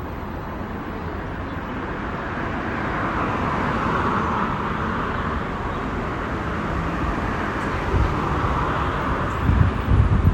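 Steady outdoor road and traffic noise heard while riding: an even rushing hiss that swells twice, with low rumbling gusts near the end.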